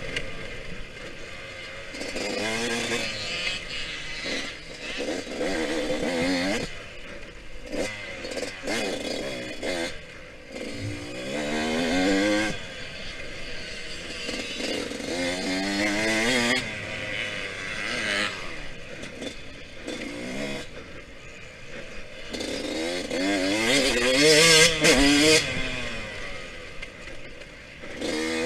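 Yamaha YZ125X's 125cc two-stroke single-cylinder engine revving hard and falling off over and over as it is ridden around a dirt track. The pitch climbs through each gear and drops back on the throttle.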